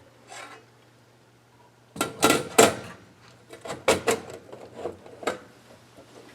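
A quick run of irregular clicks and knocks, like electronic parts and cables being handled on a workbench, starting about two seconds in, over a faint steady hum.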